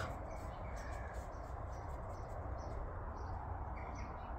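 Faint outdoor background: a steady low hiss, with small bird chirps, several short ones from about three seconds in.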